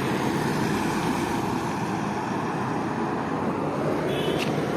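Steady traffic noise from vehicles on a highway, with a brief high chirp near the end.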